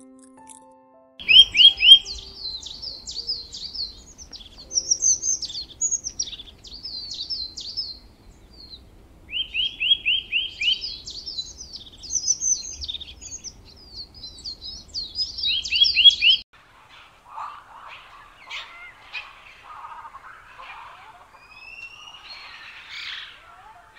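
A songbird singing in fast, high chirps and whistles, with a quick run of four or five short repeated notes at the start, around ten seconds in, and again near sixteen seconds. After that the song stops and fainter, lower animal calls follow.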